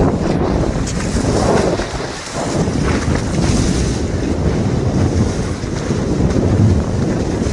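Wind buffeting the microphone over the rush of water past the hull of a motorboat under way.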